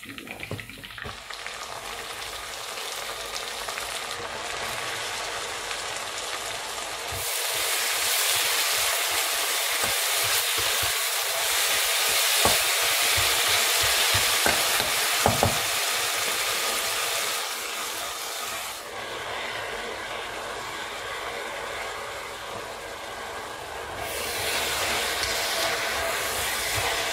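Chopped onion sizzling in hot oil in a stainless steel pot. About seven seconds in, chopped mallow greens go in and the sizzle turns to a louder, brighter hiss for about twelve seconds, with a metal spoon stirring the greens; the hiss rises again near the end as they are stirred.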